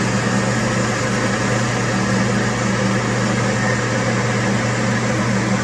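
Steady electric hum of a screen-printing conveyor dryer running, its fan and belt motor giving a low, even drone.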